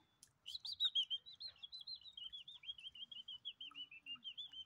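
A small bird singing a long, rapid run of high chirps, several a second, starting about half a second in and drifting slowly lower in pitch.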